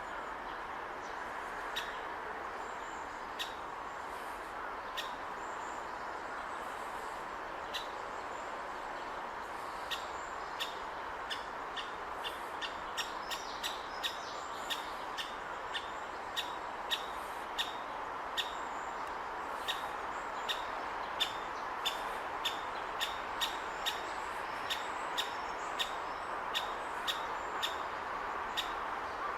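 Great spotted woodpecker nestling calling from its nest hole while it waits to be fed: short, sharp, high kik notes. They are sparse at first, and after about ten seconds they come faster, around two a second, over a steady background rush.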